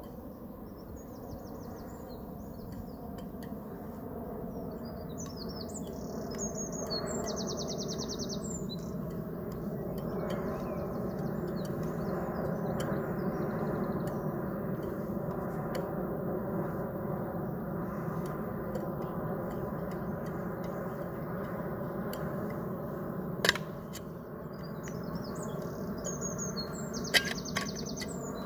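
Small birds singing rapid, pulsed trills in several bouts, over a steady low background rumble. Two sharp knocks, the loudest sounds, come about 23 and 27 seconds in.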